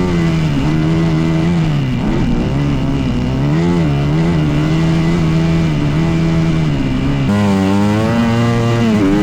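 Dirt bike engine running under load, its pitch rising and falling as the throttle is opened and backed off. About seven seconds in the sound changes abruptly, as at a cut to another clip.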